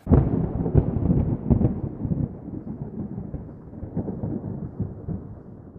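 Heavy storm of wind and pouring rain: a dense, low rushing noise full of crackling spatters. It cuts in suddenly, is loudest for the first couple of seconds, then eases a little.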